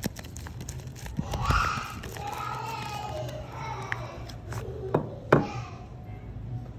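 Knife cutting into bars of soap: scattered light clicks and two sharp cuts about five seconds in. A voice is heard in the background.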